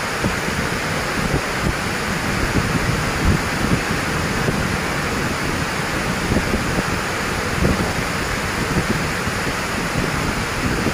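Storm wind blowing hard across the microphone: a steady rush of noise with irregular low buffeting gusts.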